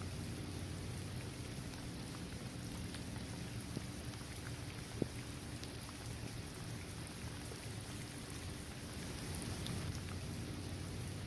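Steady rain falling on a paved basketball court, trees and grass, with scattered single drops ticking. One sharp, louder drop strike about five seconds in.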